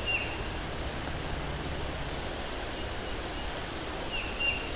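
Steady high trilling of crickets over an even background rush, with two short high chirps, one at the start and one about four seconds in.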